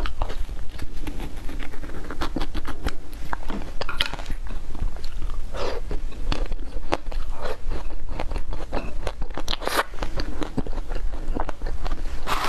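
Close-miked crunching as frozen ice cream with a hard, brittle coating is bitten and chewed, making many sharp cracks and crackles. A steady low hum runs underneath.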